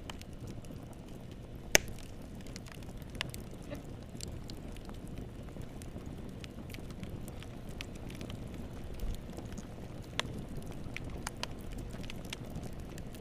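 Wood fire burning in a fireplace: a steady low rumble of flames with scattered small crackles and pops, one sharp loud pop just under two seconds in.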